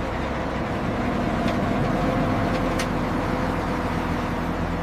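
A heavy vehicle's engine running steadily with an even hum, with a couple of faint clicks partway through.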